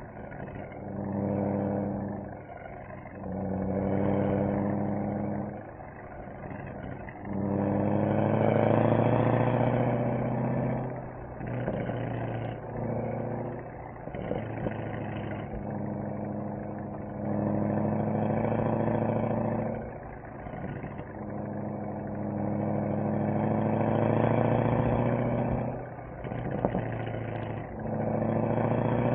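Mercedes-AMG SL63's V8 engine and exhaust under repeated acceleration, swelling loud for a few seconds and then easing back off, about seven times over.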